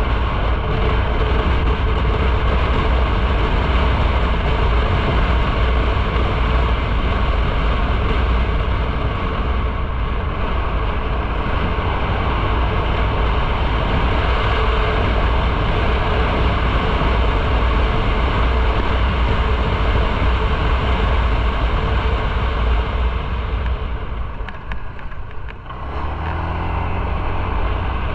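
Motorcycle riding on the road: engine, tyre and wind noise run steadily and loudly together. Near the end the noise dips briefly, then a low engine hum comes through more plainly.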